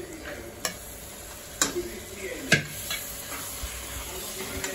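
Marinated chicken sizzling as it goes into hot oil in a pressure cooker and is stirred with a steel spoon, with three sharp metal clinks of bowl and spoon against the pot, the loudest about two and a half seconds in.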